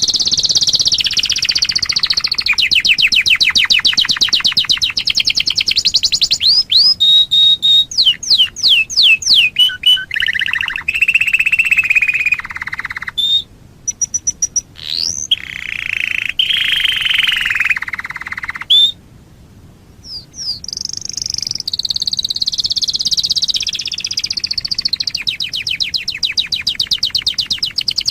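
Domestic canary singing a long, varied song of very fast trills and rolls, high-pitched, with brief pauses about halfway and two-thirds of the way through.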